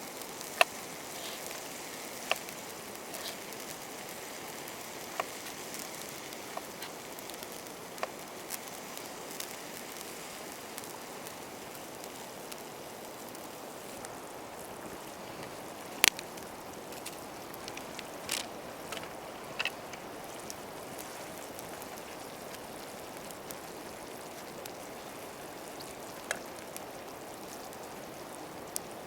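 Campfire crackling: irregular sharp pops and clicks, a few every several seconds, with the sharpest about halfway through, over a steady rushing hiss like running water.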